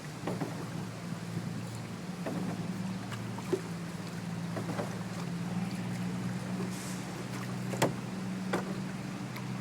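A boat's engine running steadily, with a few sharp knocks, one about three and a half seconds in and one near the end.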